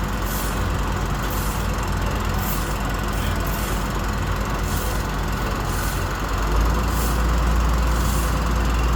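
Utility bucket truck's engine running steadily with a deep rumble, which grows louder about six and a half seconds in.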